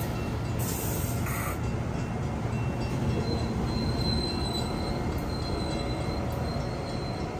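Amtrak passenger coaches rolling past at speed, a steady rumble of wheels on rail. From about three seconds in, a faint high wheel squeal comes and goes.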